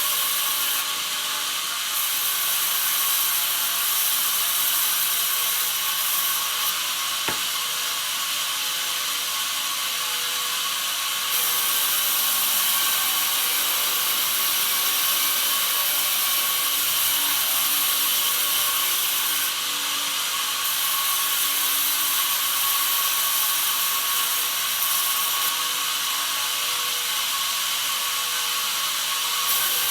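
Bandsaw mill running and sawing a pine log: a steady, high-pitched machine noise with a faint ratcheting rattle, shifting slightly in level now and then, and one sharp click about seven seconds in.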